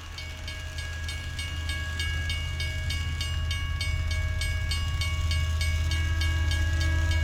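A train running, with a steady electric whine over a low hum and even clicking from the wheels, about four clicks a second, growing slowly louder as it approaches.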